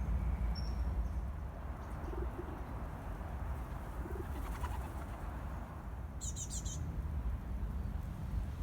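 Pigeons cooing, two short low coos about 2 and 4 seconds in, while small birds chirp briefly, with a quick run of high chirps about 6 seconds in. A steady low background rumble runs underneath.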